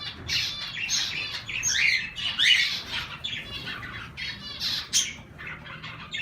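Mixed caged pet birds (budgies, cockatiel, canary, zebra finches) calling together: a busy run of short squawks and chirps overlapping without pause.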